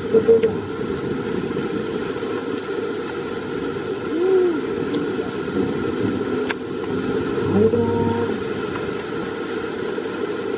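Heavy rain pouring steadily onto a flooded track, with a few short rising-and-falling voice-like calls about four and eight seconds in.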